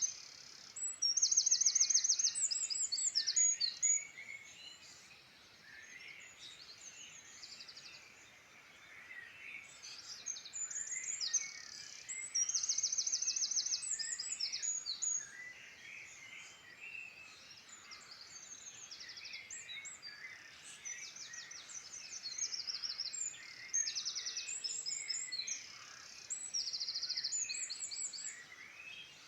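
Wild songbirds singing: one loud, high song of a few seconds with fast trills comes again several times, over a fainter, continuous chorus of other birds chirping.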